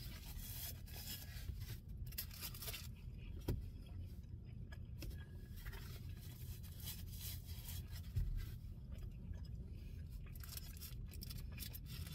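Soft chewing and the rustle of a paper burger wrapper and napkin being handled, over a steady low car-cabin hum, with a couple of small knocks.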